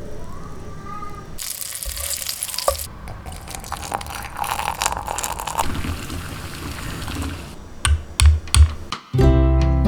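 Household kitchen sounds: a short rushing of water from a tap, then clattering and small clicks of handling things, and three low thumps. Strummed acoustic guitar music comes in near the end.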